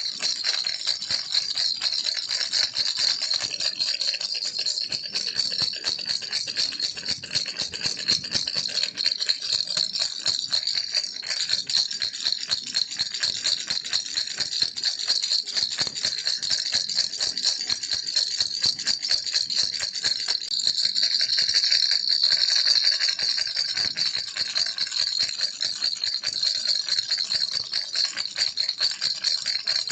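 Baby's toy rattle shaken continuously in a fast, dense, high-pitched jingling rattle.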